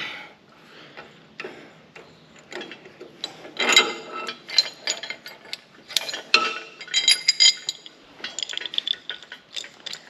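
Irregular metallic clanking and rattling as metal parts are handled, with louder ringing clinks about four seconds in and again around seven seconds in.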